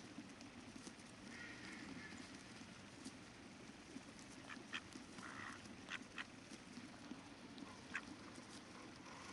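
Ducks quacking a few times, briefly, over the quiet steady rush of flowing river water, with a few sharp splashy clicks near the middle.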